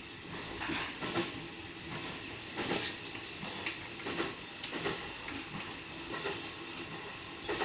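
Electric commuter train running along the track, with irregular clicks and knocks from the wheels over the rails under a steady running noise, heard from inside the leading car.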